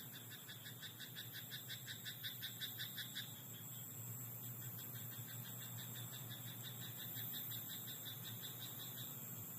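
Frogs croaking in a rice paddy: a rapid, even run of croaks, about seven a second, for the first three seconds, then a fainter caller keeps up the same rhythm until near the end, over a steady high hiss.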